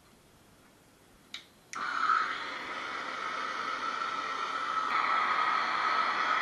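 A click, then about half a second later a soldering torch flame catching and hissing steadily, with a faint whistle-like tone in it.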